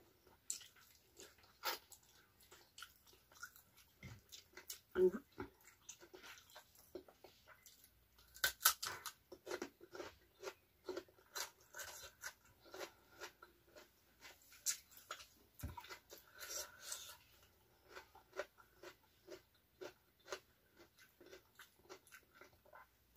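Close-up chewing and crunching of raw vegetables such as cucumber, with many short, irregular crunches.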